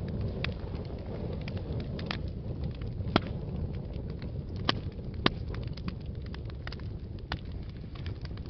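Wood fire burning in a fireplace: a steady low rumble of flames with irregular crackles and pops, the loudest snaps about three, four and a half, and five seconds in.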